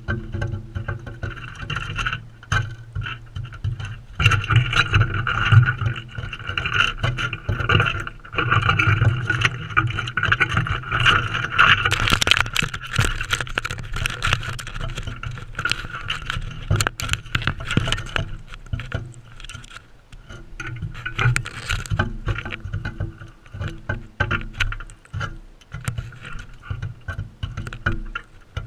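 Galahs feeding on seed close to the microphone: many quick, irregular pecks, knocks and scrapes of beaks on the feeder, over a low rumble, with a steadier chatter strongest in the first half.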